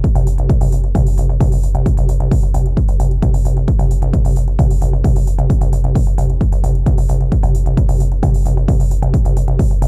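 Elektron Analog Rytm drum machine playing an improvised techno groove: a steady driving kick and bass with regular hi-hats and short tones that fall in pitch, repeating several times a second.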